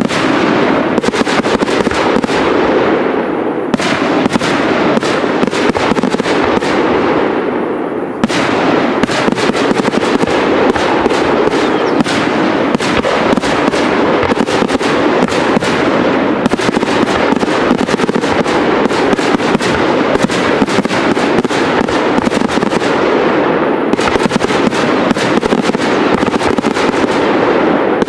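Large professional fireworks display: a dense, unbroken barrage of shell bursts and crackling, many bangs a second, with two brief lulls about 4 and 8 seconds in.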